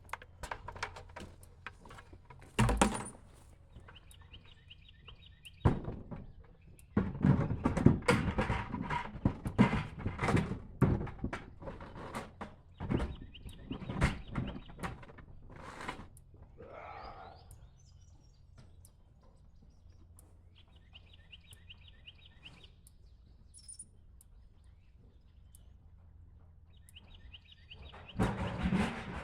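Thunks and knocks with a stretch of clattering and rustling, and a short bird trill repeated three times.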